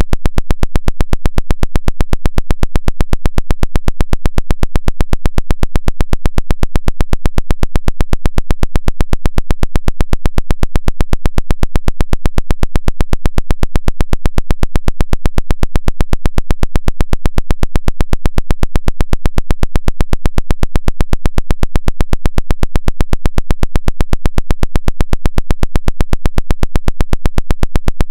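Rapid, evenly spaced pulses of harsh noise, a 'woodpecker' radio signal tapping at a steady rate without change. The uploader takes it for an electronic harassment jammer.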